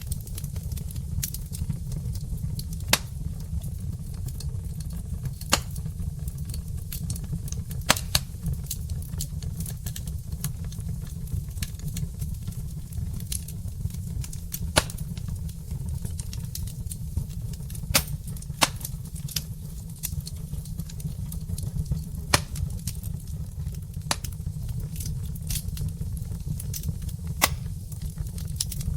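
Burning logs crackling, with irregular sharp pops over a steady low rumble.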